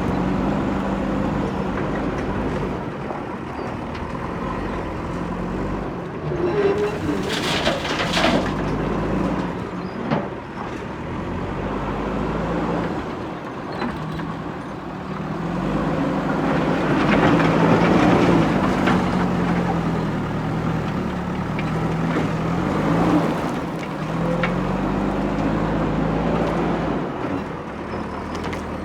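Diesel engine of a JCB backhoe loader working, its pitch rising and falling as it revs under hydraulic load. Twice there is a burst of clatter; the longer one comes a little past the middle.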